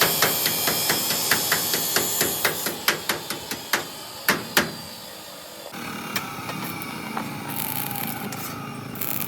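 Repeated hammer blows, about three a second for the first four and a half seconds, then a steadier workshop noise with a faint, slowly falling tone.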